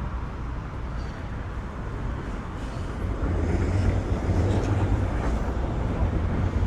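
City street traffic: a motor vehicle's low engine rumble that grows louder about halfway through.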